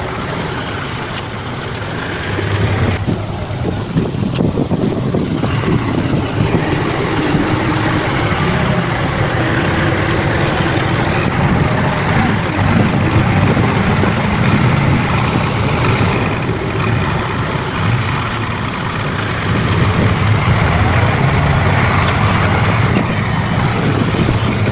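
Heavy diesel engine of a bulldozer running under load, its level rising about two seconds in and again near the end as the machine works.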